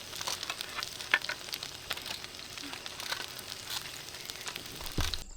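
Wood campfire crackling and popping, with dense irregular snaps. A low thump comes about five seconds in, and the crackling cuts off abruptly just after.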